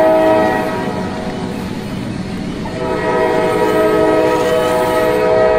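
Electronic horn sound from a battery-powered toy vehicle: a steady, horn-like tone that fades about a second in and comes back strongly about three seconds in.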